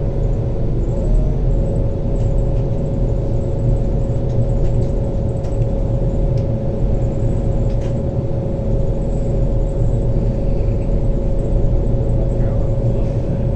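Steady low rumble of a moving diesel passenger train heard from inside the carriage, with a constant hum held on one pitch throughout.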